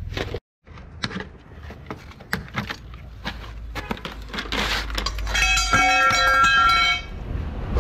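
Scattered clinks and knocks of tools on metal during a van's brake pad job, then a steady pitched tone lasting about a second and a half near the end.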